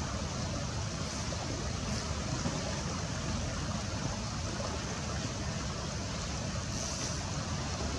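Steady rush of a fast-flowing river, with a constant low rumble underneath and a few faint brief high sounds.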